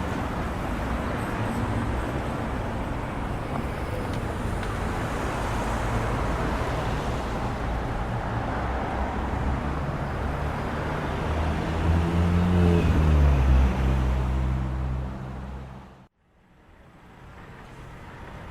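City street ambience with traffic: steady road noise and the low hum of a vehicle engine close by, loudest a little past the middle. The recording then fades out to near silence and another ambience fades in near the end.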